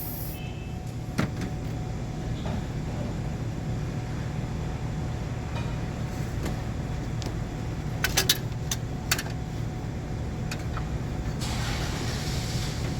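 An engine running steadily with a low hum, with a few sharp metallic clicks about a second in and a cluster around eight to nine seconds in, and a brief hiss near the end.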